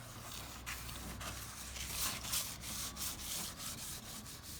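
Car bumper being hand-sanded with wet and dry abrasive paper: repeated back-and-forth strokes of scratchy rubbing, uneven in pace.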